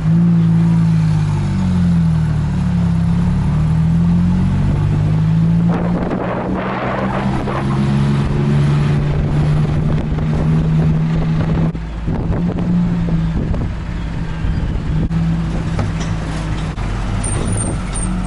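A combustion engine running close by, its pitch rising and falling as the revs change, with a rush of noise about six seconds in.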